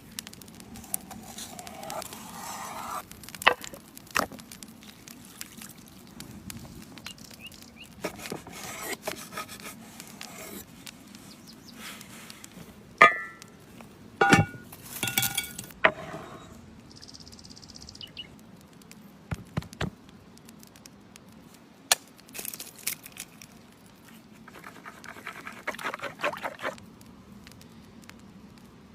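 Food-preparation sounds: scattered sharp knocks and clinks of utensils and dishes, with short stretches of rustling or crackling as ingredients are handled.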